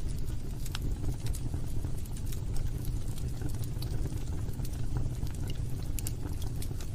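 Log fire burning in a fireplace: a steady low rumble with frequent sharp crackles and pops from the burning wood.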